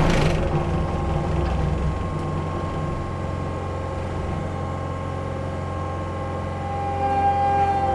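Heavy machine's diesel engine and hydraulics running steadily under load, with a steady high whine from the spinning mulcher head. It is louder and rougher at the very start, then settles to an even drone.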